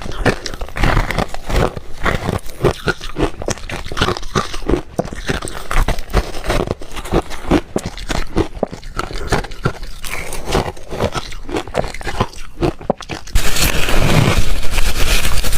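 Ice being crunched and chewed between the teeth, in many quick irregular crunches. About 13 seconds in, a louder, denser crunching noise sets in.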